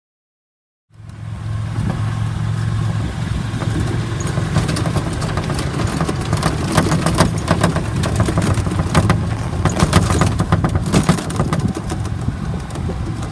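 A vehicle engine running steadily, with a constant low hum and a lot of rattling and clicking over it; it starts abruptly about a second in.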